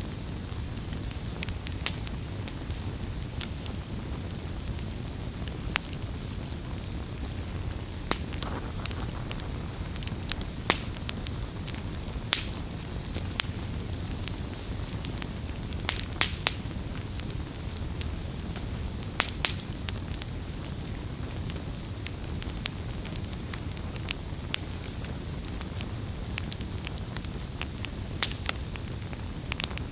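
Wood campfire crackling: frequent irregular sharp pops and snaps over a steady low rush of burning.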